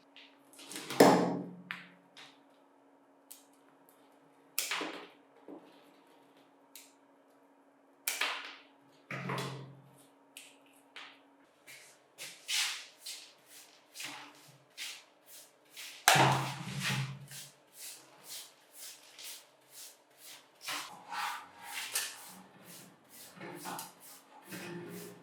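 Workshop handling sounds: a run of sharp clicks and knocks of tools against metal parts, with a few heavier thuds as something solid is set down. The strokes come quickly in the second half, over a faint steady hum.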